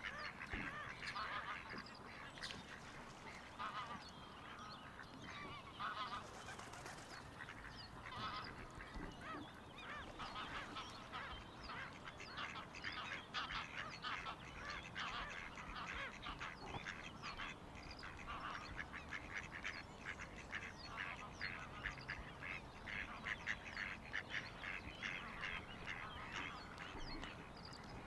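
A flock of geese honking, many short calls overlapping, growing denser in the second half.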